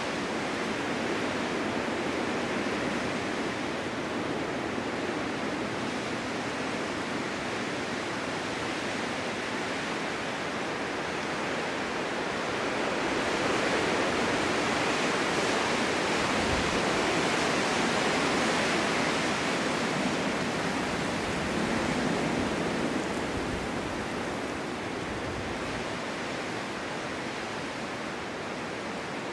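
Strong winter wind blowing steadily in gusts, a dense rushing hiss that swells about halfway through and eases again near the end.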